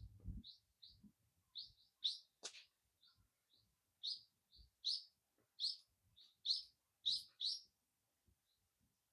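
A small wild bird chirping over and over: short high chirps roughly two a second, louder in the middle of the stretch and stopping near the end. A single sharp click comes about two and a half seconds in.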